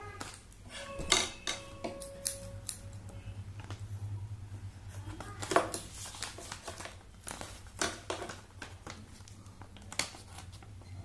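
Sticky tape being picked at and pulled off a cardboard box during unpacking, heard as irregular sharp clicks and scrapes, the loudest about a second in and again about five and a half seconds in.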